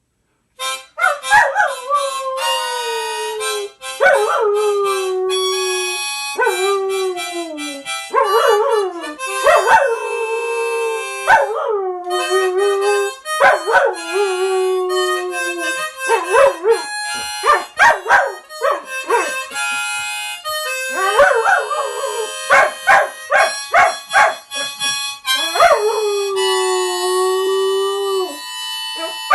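A dog howling along to a harmonica being played: long howls that start high and slide down to a held lower note, one after another, over the harmonica's chords.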